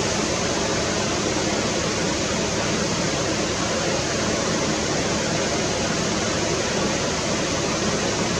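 Steady rush of flowing water, an even, unchanging noise.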